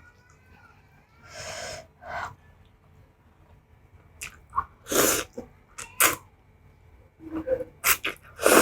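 Close-up eating of spicy instant noodles: several short, loud slurps, with quieter chewing between them.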